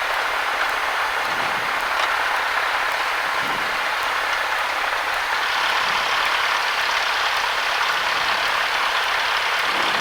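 Steady in-flight cabin noise of a Cessna 172: engine and airflow heard as an even hiss.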